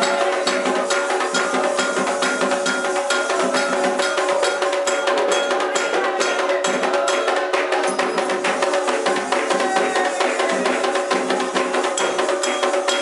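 Candomblé ritual drumming: a dense, steady rhythm of hand-drum strokes with a bright struck percussion pattern over it.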